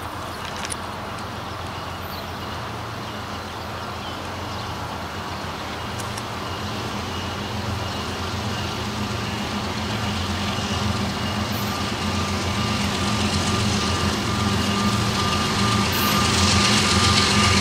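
Diesel locomotive engines running as a train approaches, the sound growing steadily louder, with a thin steady whine above the engine note.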